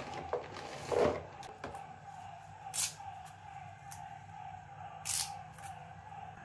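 A few light plastic knocks and clicks as a plastic fridge storage box and its cups are handled and filled, about one, three and five seconds in, over a faint steady hum.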